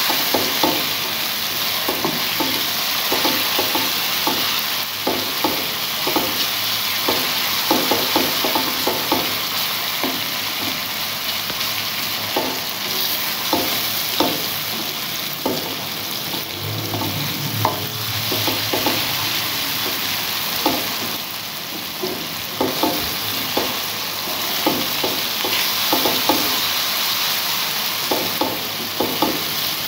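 Tomato, onion and ginger-garlic masala sizzling in oil in a steel pan, a slotted spatula scraping and tapping the pan in short irregular strokes as it is stirred. It is the bhunai stage, frying the tomatoes down into the masala.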